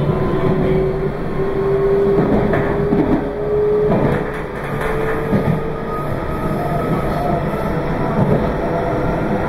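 Meitetsu 2200 series electric train running, heard from on board: steady running noise with a motor whine that rises slowly in pitch over the first six seconds as it gathers speed, and occasional knocks of the wheels over rail joints.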